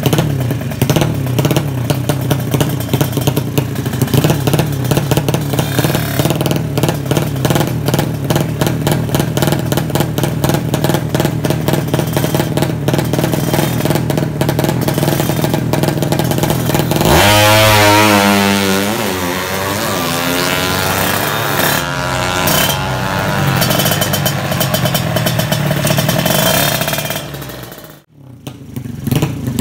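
Drag-racing motorcycle engine running with a fast, steady firing pulse. About two-thirds of the way in it is revved once, the pitch sweeping, then it settles back to running. The sound cuts out suddenly for a moment near the end.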